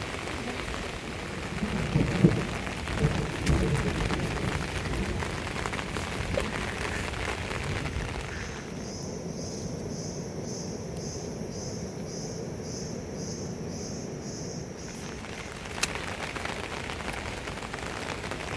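Heavy rain falling steadily, with a few low rumbles and thumps about two to four seconds in. In the middle, a high pulsing chirp repeats about twice a second for some six seconds.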